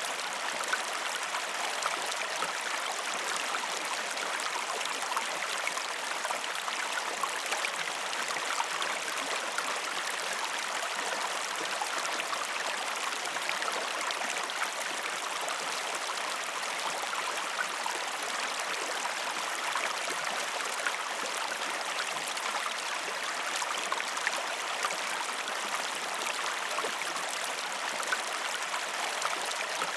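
Waterfall: water falling and splashing in a steady, even rush with a hissy top and no deep rumble.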